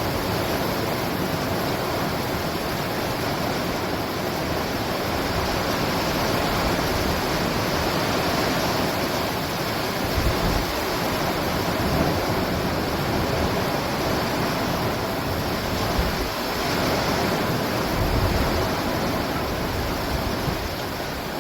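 Steady downpour of heavy rain during a thunderstorm: an even, dense rush of noise, with a few brief low thumps in the second half.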